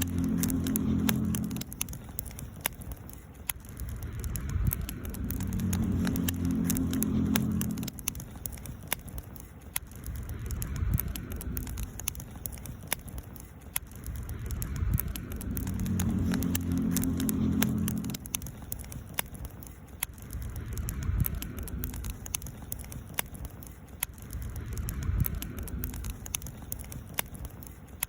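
Campfire burning, with frequent sharp crackles and pops of the wood. A low hum swells up and fades several times.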